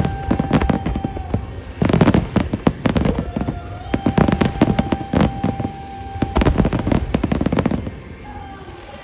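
Aerial fireworks shells bursting in rapid volleys of sharp bangs and crackle, thinning out about eight seconds in. A long steady tone is held twice underneath the bursts.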